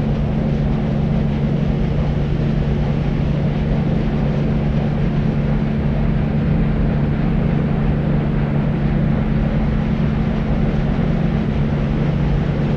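Deep white noise for sleep: a steady, unchanging low rumbling hiss, strongest in the low range and thinning toward the top.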